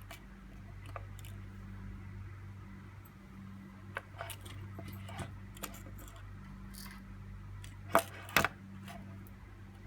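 Small clicks and taps from handling a GMC/Chevrolet key fob remote during its battery change, with two sharp, louder clicks about eight seconds in, over a steady low hum.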